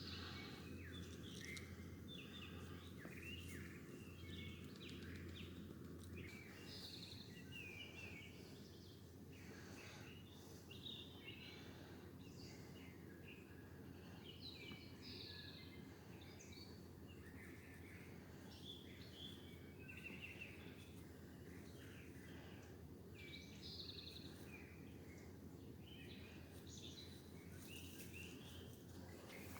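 Faint outdoor ambience: songbirds chirping and calling in short, scattered notes, over a low steady hum.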